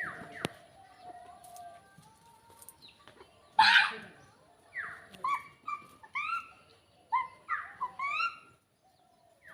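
A series of short, pitched animal calls, several sliding down in pitch, with one louder, harsh call about three and a half seconds in and a quick run of calls in the second half.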